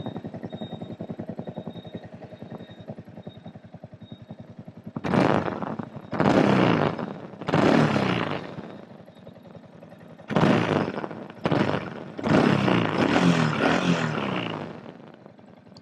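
Yamaha R15's single-cylinder engine idling with an even, fast pulse, then revved in about six short throttle blips, the revs dropping back after each.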